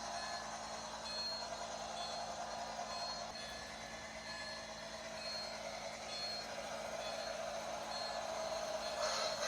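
Santa Fe 4100 model steam train running on its track: a steady whir of motor and wheels, with short high beeping tones repeating about once a second. A louder hiss comes in near the end.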